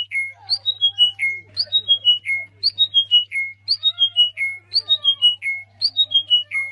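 Birds calling: a loud whistled phrase, a high note that steps down through several notes to a held lower one, repeating about once a second, over softer chirps and chatter. A faint low hum runs underneath.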